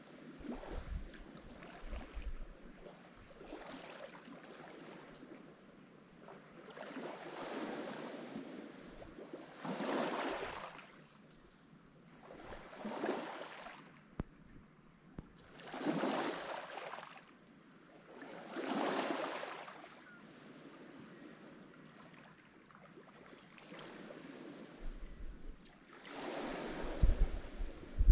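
Lake Michigan waves washing onto the shore, each one swelling and falling away in surges a few seconds apart. Wind buffets the microphone near the end.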